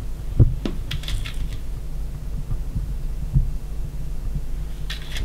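A few light clicks and taps of small plastic mosaic pieces being handled and set onto a glass plate, over a steady low hum.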